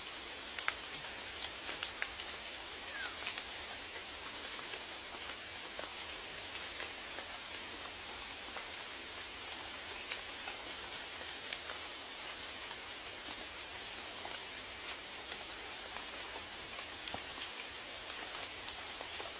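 Steady rain falling, with many separate raindrop hits clicking sharply over the even hiss.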